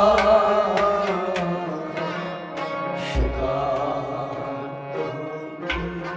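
Kashmiri folk song: a sung line trails off at the start, then an instrumental passage follows with a melody instrument, sharp hand-drum strikes and a deep drum beat every few seconds.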